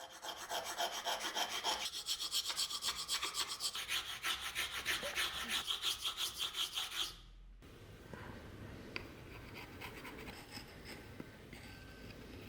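Wood being worked by hand with an abrasive in rapid, even back-and-forth strokes, about five a second, which stop abruptly about seven seconds in. After that there are only faint light clicks and handling sounds.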